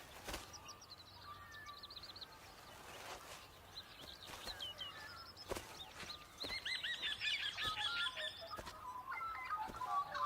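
Birds chirping, with quick runs of high repeated chirps that grow busier in the second half, and a few sharp clicks.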